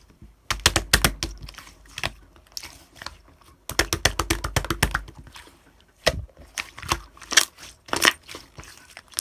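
Slime being pressed and squeezed by hand, giving rapid runs of small pops and crackles: a dense run about half a second in, another near four seconds, then scattered pops.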